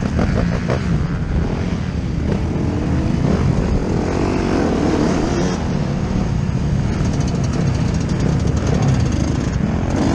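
Yamaha YZ125 125 cc single-cylinder two-stroke motocross engine heard from on board the bike, revving up and down as it is ridden.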